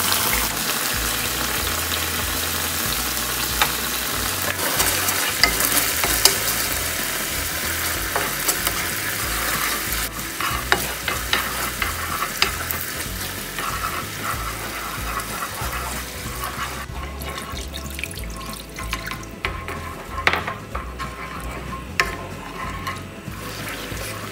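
Sliced onion, ginger and garlic with miso and sauces sizzling in hot oil in a non-stick pan, stirred with a wooden spatula that scrapes and taps the pan now and then. The sizzle drops away about two-thirds of the way through as the pan fills with liquid.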